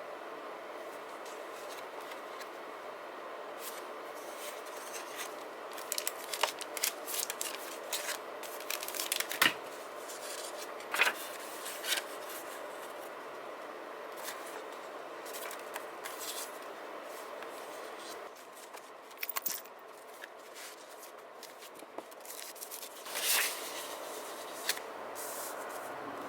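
Paper-crafting sounds of journaling: scattered short crisp snips, peels and rustles of paper and stickers, clustered about a quarter of the way in and again near the end, over a steady background hiss.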